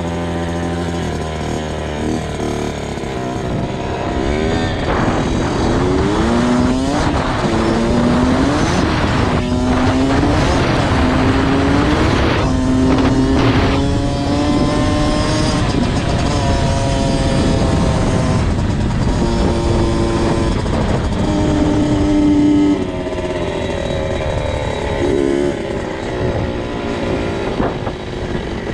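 Kawasaki KX 65 dirt bike's small two-stroke engine revving hard during a ride. Its pitch climbs in repeated rises through the gears, holds high for several seconds, then falls off sharply when the throttle is closed and runs on lower.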